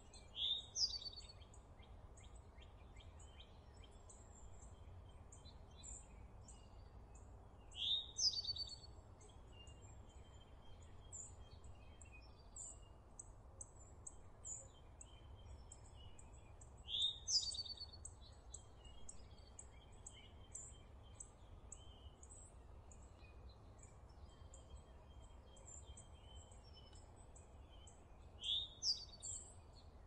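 Birds calling: one bird gives a short, rising, buzzy phrase four times over a steady scatter of faint high chirps, with a low steady hum underneath.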